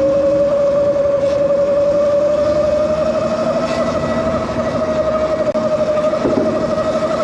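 Electric bike's motor whining steadily, its pitch creeping slowly upward as the bike gains speed, over rushing wind and tyre noise.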